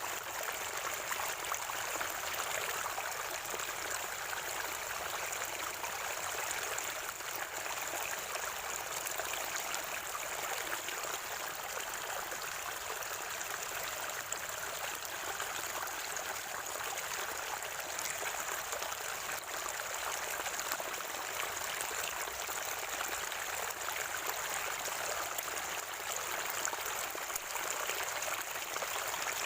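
Natural spring water running and gurgling steadily, with an even high hiss above the flow.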